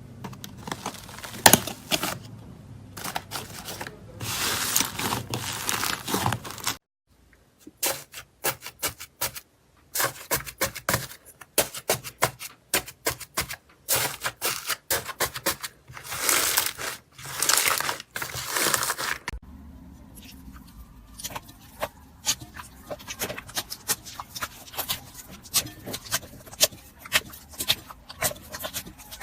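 Slime being squished and worked by hand: a dense run of sticky pops, clicks and crackles, broken by sudden changes about a third and two-thirds of the way through.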